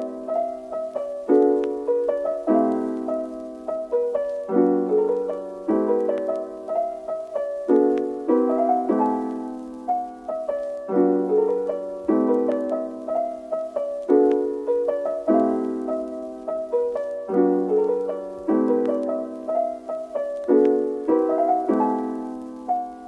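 Background piano music: a gentle repeating pattern of struck chords with a melody on top, each note fading after it is played.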